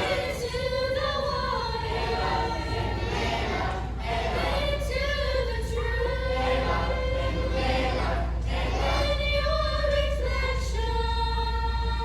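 A children's choir singing together in unison, with long held notes.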